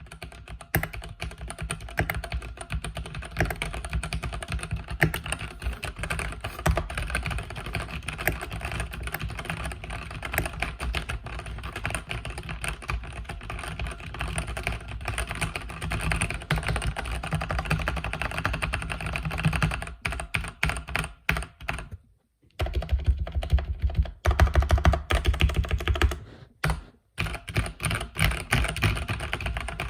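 Mechanical keyboard with linear red switches being typed on in a fast, continuous stream of keystrokes. Twice near the end the typing stops for a moment, and between those stops the keystrokes are heavier and louder.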